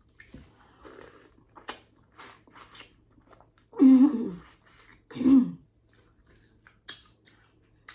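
Close-up eating of snow crab: chewing with scattered wet clicks and crunches. Twice, about four and five seconds in, a short hum of the voice with falling pitch.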